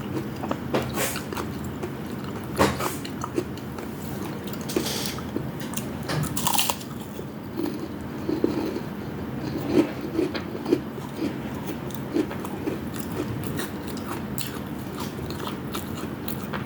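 Chewing and biting into crunchy deep-fried food, with loud crunches every few seconds over steady chewing.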